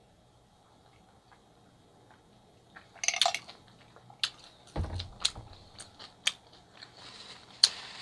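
Quiet for about three seconds, then close-miked chewing with sharp crunches and mouth clicks. A single low thump comes about five seconds in.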